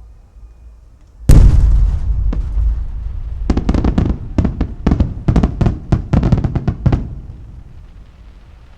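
Aerial fireworks: one heavy boom from a large shell bursting, then a rapid string of about a dozen sharp bangs, with a rumble that fades out afterwards.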